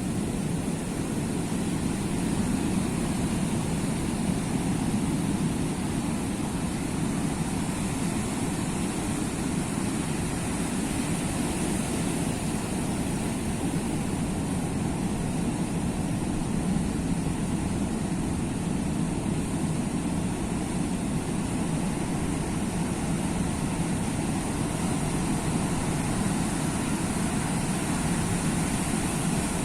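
Sea waves making a steady, even rumble of surf, without distinct separate breakers.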